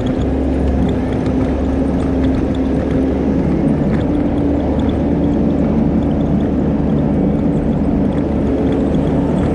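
Skid steer loader's engine running steadily under load, its pitch stepping up a little about a third of the way in.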